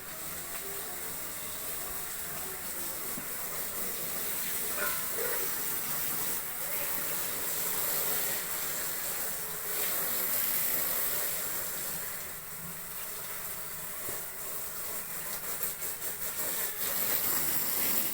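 Steady hiss of water spraying from a hose onto a pile of sawdust, wetting the mushroom substrate mix to bring up its moisture; it swells a little around the middle.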